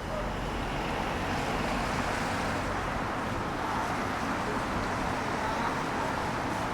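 Steady city road traffic, with tyres hissing on wet pavement as vehicles pass.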